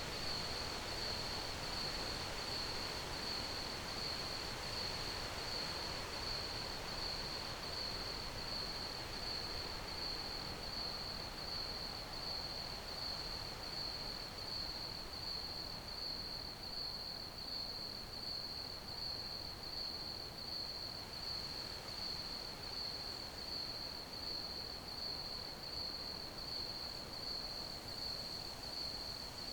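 Crickets chirping in a steady, even pulse on one high pitch, over a soft hiss of background noise.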